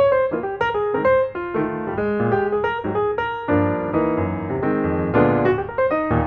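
Background music: a piano melody playing a steady run of notes.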